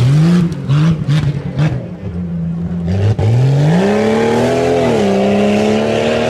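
A four-wheel-drive tuff truck's engine revving in short blips at the start line. About three seconds in there is a sharp crack, and then the engine climbs in pitch and holds high revs as the truck launches.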